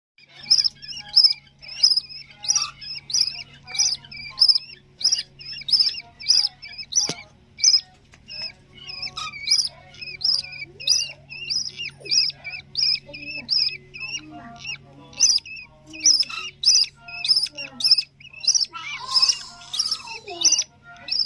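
Budgerigar chicks giving repeated, sharp begging calls, about two a second, as they are fed. A faint steady low hum sits underneath.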